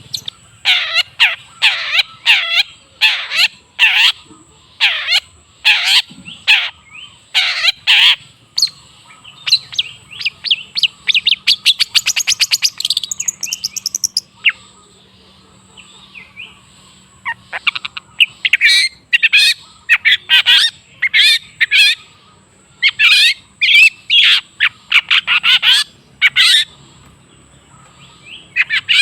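Long-tailed shrike (cendet) singing: a string of loud, harsh notes about two a second, a fast rattling trill in the middle, then after a quieter stretch more dense bursts of harsh notes.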